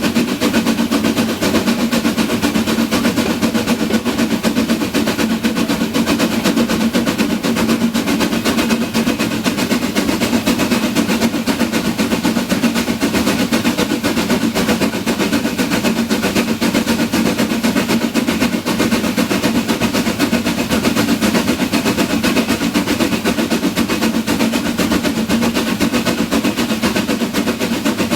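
Harz narrow-gauge steam train running: a loud, steady, rapid rattle that goes on without a break.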